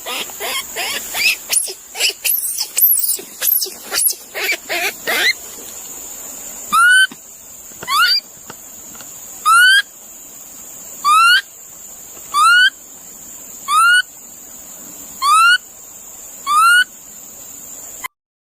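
Bird calls: a flurry of quick gliding chirps for about five seconds, then a short rising whistled call repeated eight times, about every second and a half.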